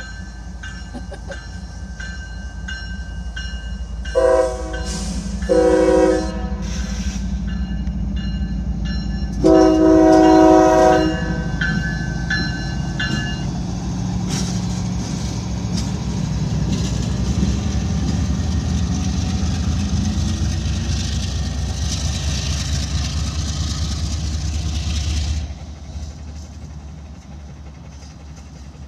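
CSX diesel locomotive passing a grade crossing, sounding its multi-chime horn three times: a short blast, a longer one, then a long one. A crossing bell dings steadily under the engine's rumble at first, then the train's cars rattle past until the sound drops off sharply about 25 seconds in.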